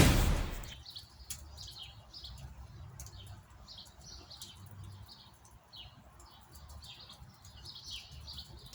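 Small birds chirping, many short high calls in quick succession over a faint low rumble. A loud burst of noise dies away in the first second.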